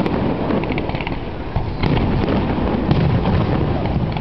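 Fireworks display: aerial shells bursting in a continuous barrage, a dense run of overlapping bangs and crackles with no pause.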